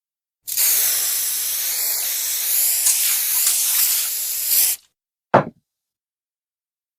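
Pressurised spray can hissing in one continuous burst of about four seconds, cutting off sharply, followed by a brief separate sound a moment later.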